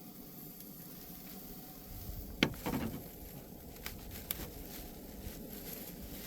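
A beer being opened: one sharp crack about two and a half seconds in, followed by a few lighter clicks, over a faint steady hiss.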